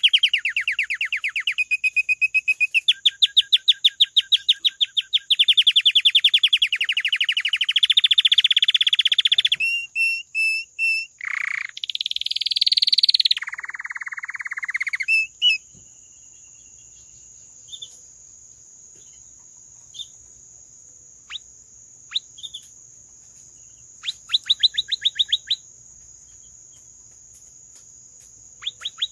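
Domestic canary singing: long runs of fast trills and rolls for about fifteen seconds, then a pause broken by a few single chirps, then another short trill and a new one starting near the end.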